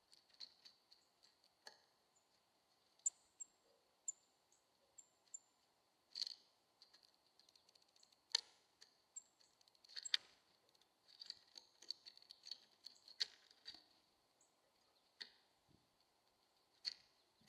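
Small bird at a seed feeder: scattered sharp taps and clicks, typical of pecking at seed and moving on the feeder, with a quick run of short high chirps about three seconds in. A faint steady high whine sits underneath.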